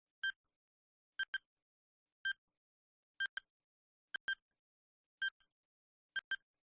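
Quiz countdown-timer sound effect: short, high electronic ticks about once a second, some of them doubled, with silence in between.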